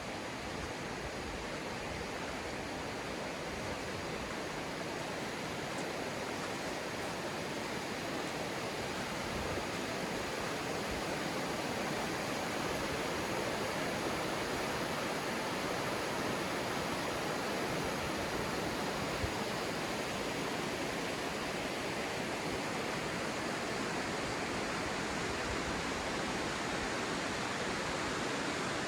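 Rushing river: a steady wash of water noise that grows slightly louder over the first ten seconds or so, then holds.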